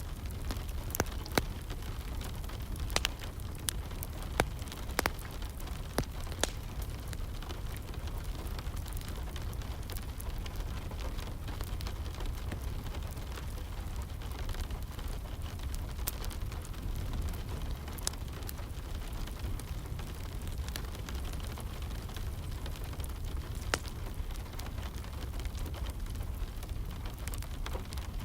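Wood fire crackling with sharp pops, most of them in the first several seconds, over a steady hiss of rain and a low rumble.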